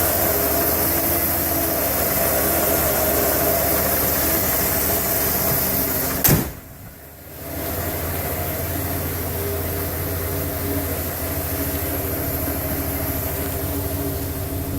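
1991 Ford F-150's 5.0-litre V8 idling steadily, still warming up after a cold start. About six seconds in there is one sharp knock, the sound drops away for about a second, then the idle comes back.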